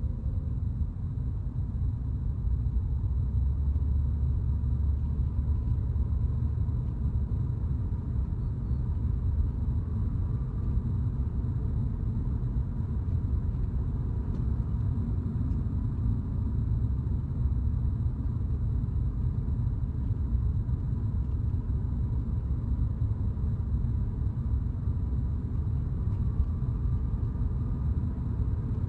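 Steady low rumble of a car driving, road and engine noise heard with no let-up.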